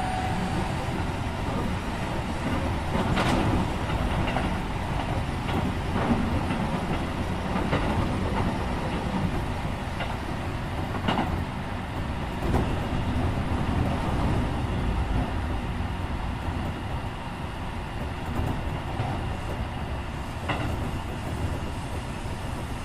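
Running noise heard inside a Keikyu 1500-series electric train car, re-equipped with Mitsubishi IGBT VVVF inverters, on the move: a steady rumble of wheels on track with a few sharp clacks over rail joints. A high whine dies away right at the start.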